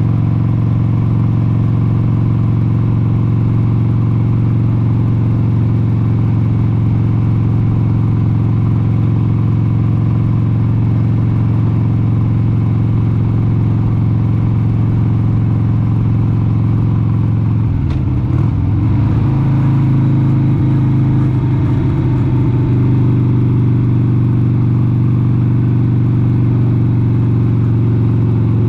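1996 Harley-Davidson XLH883 Sportster's air-cooled 883 cc Evolution V-twin running steadily at cruising speed. About eighteen seconds in the engine note wavers briefly, then settles slightly higher and a little louder.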